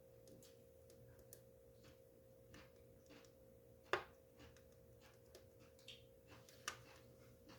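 Wood fire in a fireplace crackling softly, with scattered irregular pops and one sharper pop about four seconds in, over a faint steady hum.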